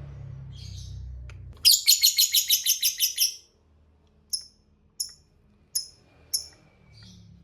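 Lovebird giving a loud, rapid chattering trill (the 'ngekek' call), about seven harsh notes a second for under two seconds, followed by four short, sharp single chirps.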